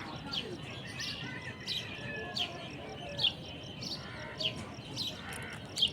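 Parrot calling with short, sharp, falling chirps, repeated about once a second.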